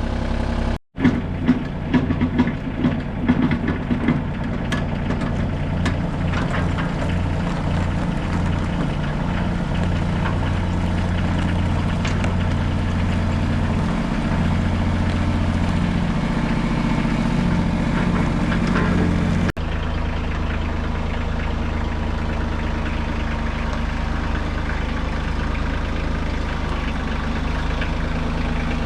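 Engine of heavy earthmoving equipment, an excavator or tractor, running steadily with a low hum, with a few short sharp noises in the first few seconds.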